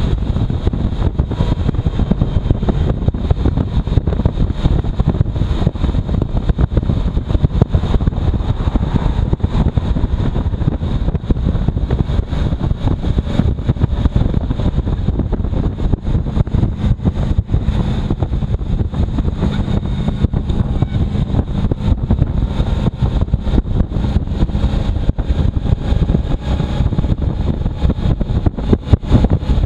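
Heavy wind buffeting the microphone on a moving motorcycle, a loud continuous low rumble, with the bike's engine running underneath.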